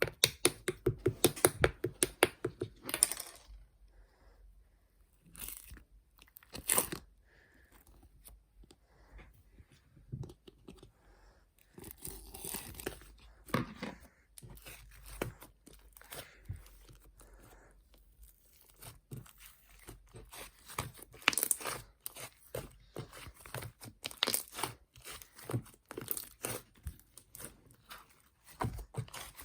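Close-up crunching and crinkling, with many sharp crackles in irregular clusters, quieter in a few short gaps.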